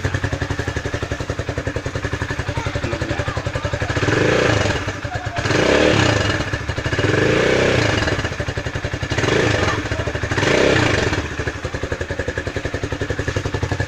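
Rusi Classic 250 motorcycle engine idling and blipped up about five times through its cut-open stock exhaust with the silencer left out. It has a bigger, freer exhaust sound.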